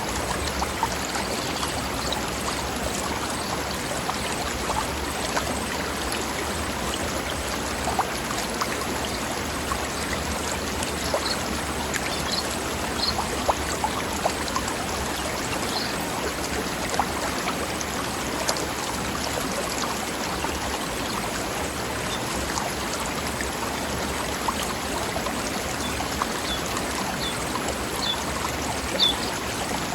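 Mountain stream flowing and splashing over rocks, a steady babbling rush. A few short high bird chirps come through now and then, mostly in the middle and near the end.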